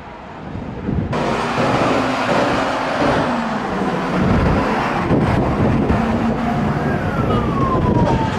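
Loud, steady rushing noise of a road vehicle close by, with a siren's wail starting near the end and falling in pitch.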